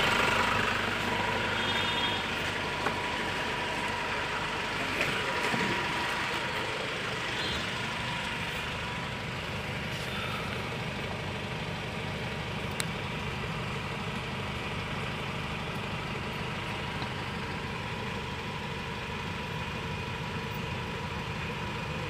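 Mahindra Xylo's diesel engine idling steadily.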